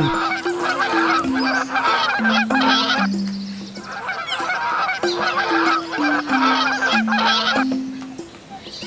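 A flock of swans honking and calling in dense, overlapping calls, with a brief lull midway. A simple descending tune of low notes plays twice underneath.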